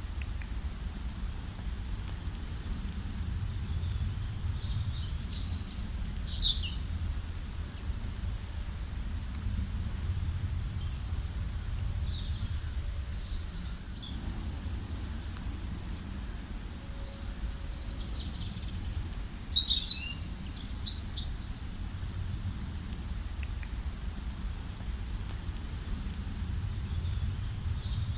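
Several songbirds chirping and trilling in short high calls, with louder bursts of song about 5, 13 and 20 seconds in, over a steady low rumble.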